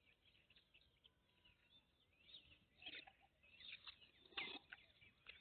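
Near silence with faint bird chirping in the background; a couple of short, slightly louder sounds come about three and four and a half seconds in.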